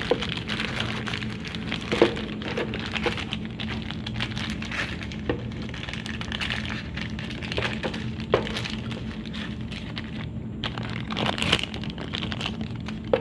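Handling noises from work on the car: scattered sharp clicks and crackles with some crinkling, over a steady low hum.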